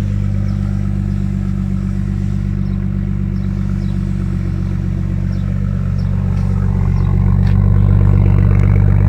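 BMW engine idling through a straight-piped cat-back exhaust with no muffler, a steady low drone; it gets louder from about six seconds in.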